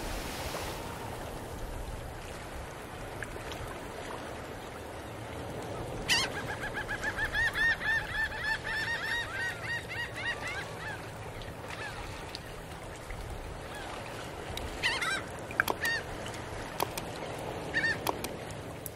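A bird calls in a fast run of repeated notes for about five seconds from around six seconds in, over a steady background hiss. A few shorter calls and clicks follow near the end.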